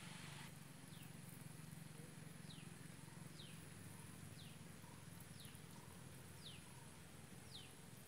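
A bird repeating a short, high falling whistle about once a second, faint over a low steady hum.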